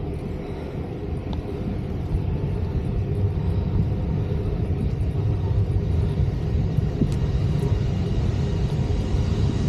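Low rumble of a jet airliner's engines on the nearby runway, growing steadily louder.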